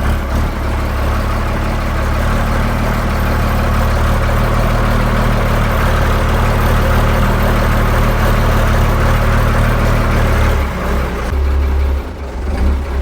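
An engine running steadily, its sound changing about three-quarters of the way through and dropping away at the very end.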